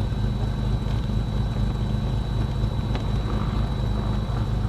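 Twin piston engines of a Cessna 310 running steadily at low taxi power, heard inside the cockpit, with a thin steady high whine above the drone.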